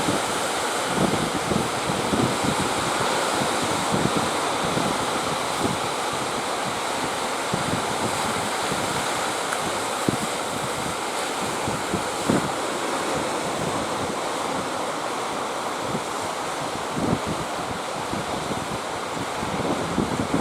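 Sea surf rushing steadily in a strong wind, with gusts buffeting the microphone in short low rumbles.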